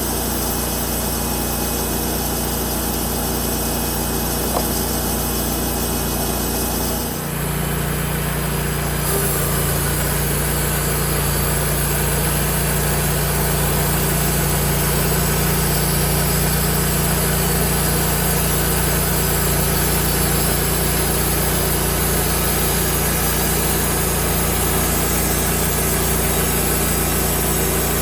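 Engine-driven band sawmill running steadily. Its low note shifts about seven seconds in, and the sound runs a little louder from about nine seconds on.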